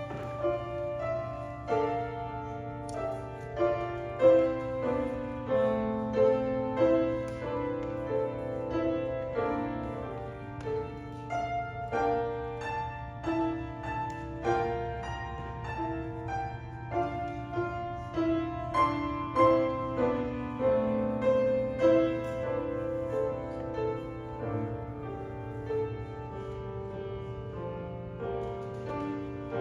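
Piano music: single notes and chords struck one after another, each ringing and fading. A steady low hum runs underneath.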